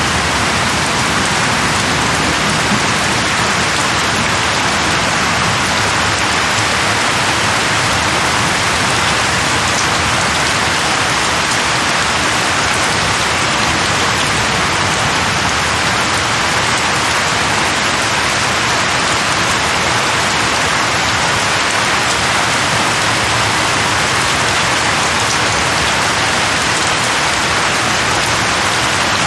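Heavy rain falling steadily on a surface, a dense even hiss with no breaks.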